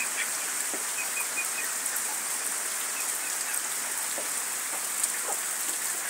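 Heavy rain falling steadily on trees and a waterlogged yard, an even hiss of downpour.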